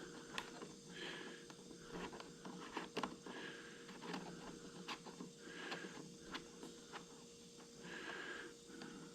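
Faint scattered clicks and taps of a contour gauge being handled and pressed into a gap in a wooden birdhouse roof, its pins shifting to take the shape, with soft breaths through the nose every couple of seconds.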